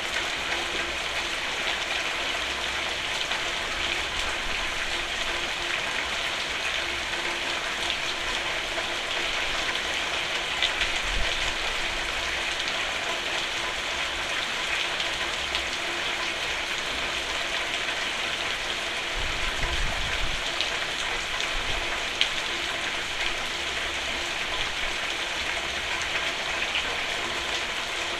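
Steady rain falling on a roof, an even hiss with a few louder single drops standing out now and then.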